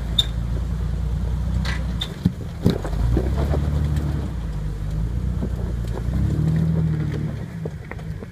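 Jeep Wrangler's engine running under load as it crawls up a rock ledge, its note swelling twice with throttle. A few sharp knocks about two to three seconds in.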